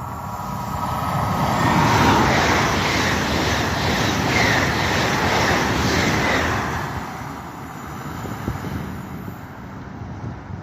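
Train passing through the station, building to its loudest about two seconds in and fading away after about seven seconds, with a regular beat of wheels over the rails while it is closest.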